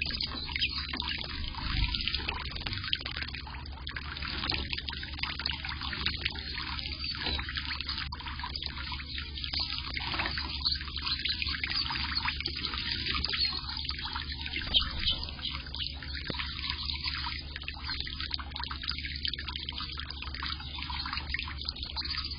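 Small solar fountain in a bird bath, its jet splashing and trickling steadily back into the water, with a dense patter of drips.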